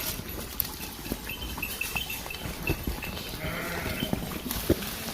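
A farm animal bleats once, about three and a half seconds in, with scattered light clicks and a faint high repeated peeping around it.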